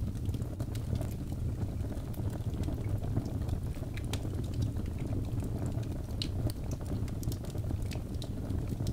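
Wood fire in a fireplace crackling: a steady low rumble of flame with many small irregular pops and snaps.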